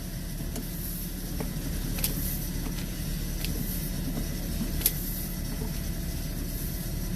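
A motor running steadily with a low, even drone. Two sharp clicks come about two seconds and about five seconds in.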